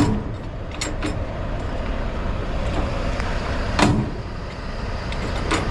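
Diesel semi truck idling with a steady low rumble, with a few sharp metallic clanks, the loudest about four seconds in.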